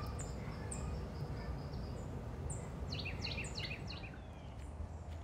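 Wild birds chirping: a few short, high, falling chirps, then a quick run of falling notes about three seconds in, over a steady low background hum.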